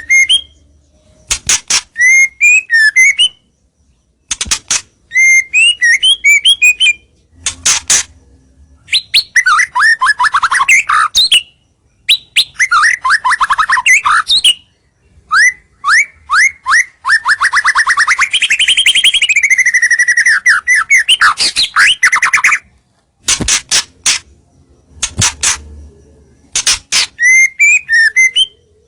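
White-rumped shama singing vigorously. Its phrases of clear, quick whistles alternate with fast rattling trills and sharp clicks, separated by short pauses. The longest trill runs for about six seconds in the second half, rising and then falling in pitch.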